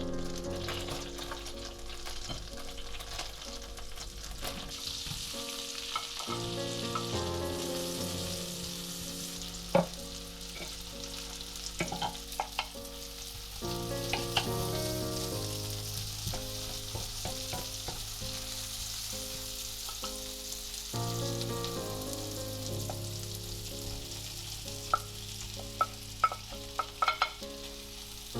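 Food sizzling and frying in a pan, a steady hiss, with sharp clicks and taps, several of them near the end, over soft background music with sustained notes.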